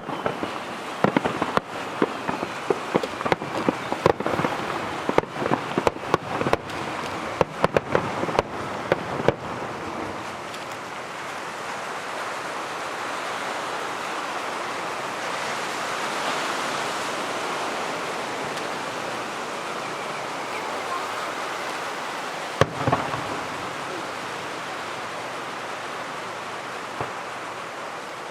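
Aerial fireworks going off in a rapid barrage of sharp bangs and cracks for about the first ten seconds. A steady rain-like hiss follows, with one more loud bang a little past twenty seconds.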